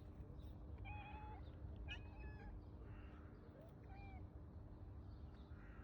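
A cat meowing faintly: three or four short, high meows, about a second in, two seconds in and around four seconds, over a low steady hum.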